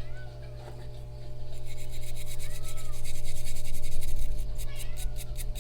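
Brisk scrubbing of a small metal carburetor linkage cover with a brush, rapid rasping strokes that start about a second and a half in and grow louder and quicker toward the end.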